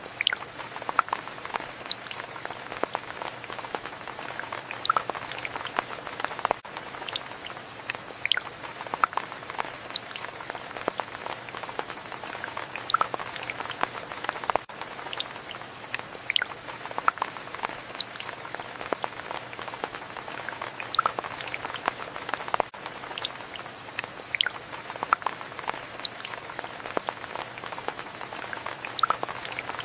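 Steady rain with many separate drops pattering and ticking close by over a soft even hiss. The hiss briefly dips about every eight seconds.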